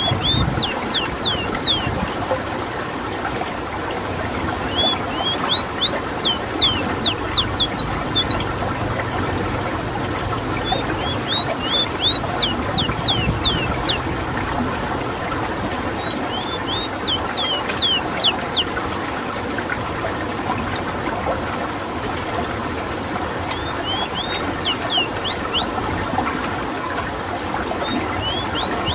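Ruddy-breasted seedeater (Sporophila minuta) singing: a phrase of quick, high, downward-sweeping notes that grow louder toward its end, repeated about every five seconds. A steady hiss of background noise runs underneath.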